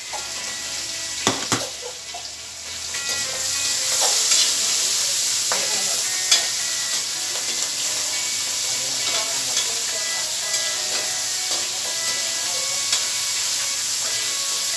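Meat frying and sizzling in a metal wok on a gas stove, with a steady hiss that grows louder about four seconds in. A spoon clinks and scrapes against the pan now and then as the food is stirred.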